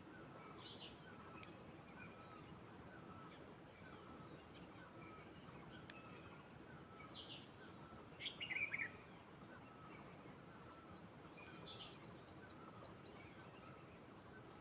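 Faint birdsong: a short falling note repeated about twice a second, a higher sharp call every four seconds or so, and a louder chattering burst about eight seconds in, over a soft background hiss.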